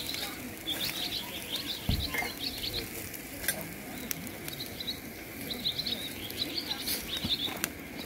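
Birds chirping in two runs of quick calls, over the steady sizzle and occasional sharp pops of bone-in chops grilling in a wire basket over a fire.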